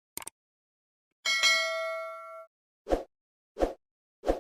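A single bell-like ding that rings for about a second, followed by three short dull thumps about 0.7 seconds apart.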